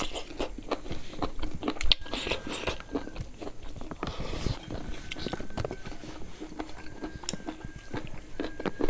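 Chewing and biting of roasted pig head meat and rice eaten by hand: many quick, irregular wet mouth clicks and crunches.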